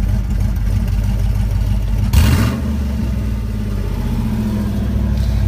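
Cammed 5.3 Vortec V8 running with its custom exhaust opened up by a button-operated cutout, giving a loud steady exhaust note. About two seconds in there is a brief blip of the throttle, then it settles back.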